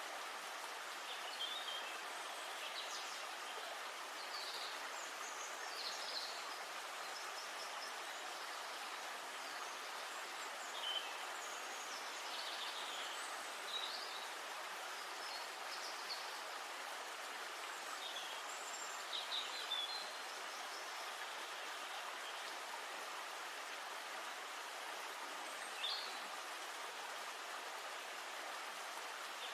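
Songbirds chirping here and there over a steady rush of flowing river water.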